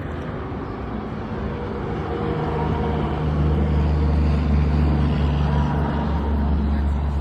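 Car engine running with a steady low hum, swelling louder about two seconds in and then holding.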